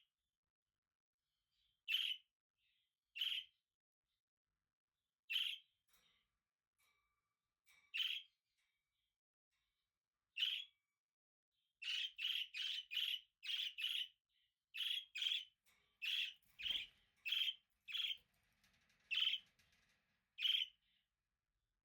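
Budgerigar chirping in short, separate high chirps, spaced a couple of seconds apart at first and then coming in a quick run over the second half.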